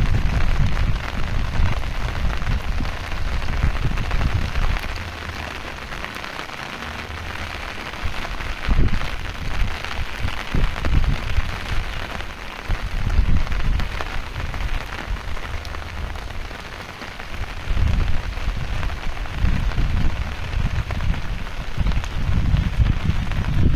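Heavy rain falling, a steady hiss, with a low rumbling that swells and fades several times.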